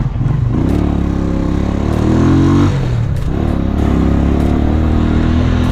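Motorcycle engine accelerating, its pitch rising, then dropping suddenly about two and a half seconds in as it shifts up a gear, and rising again as it pulls in the next gear.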